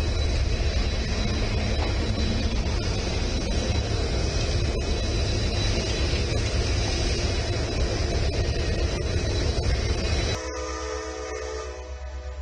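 Freight train cars rolling past: a steady loud rumble and rail noise with a thin high whine and light wheel clicks. About ten seconds in it cuts off abruptly and gives way to quieter, steady stacked tones.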